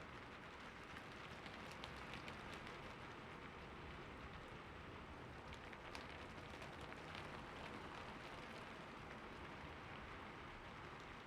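Heavy rain falling steadily, with many separate drop impacts ticking sharply over the constant hiss.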